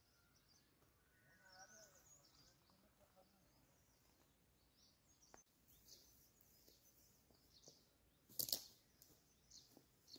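Faint birdsong in a quiet pine forest: scattered short, high chirps. About eight and a half seconds in, a brief louder burst of noise stands out.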